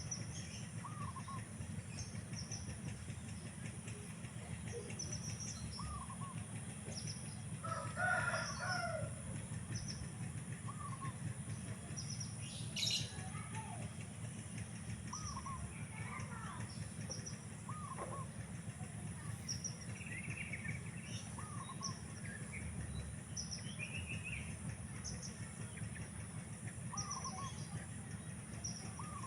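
Small birds calling in the open: frequent short high chirps and an arched whistled call repeated every couple of seconds. A rooster crows once about eight seconds in, over a steady low rumble.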